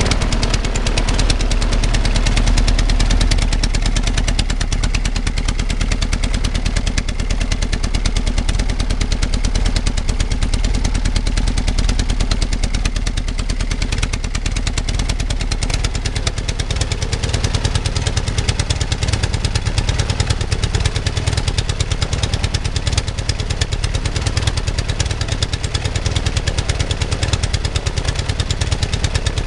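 Global half-VW engine, a two-cylinder four-stroke boxer built from VW Beetle parts, running steadily and driving its propeller, with a fast, even beat of firing strokes.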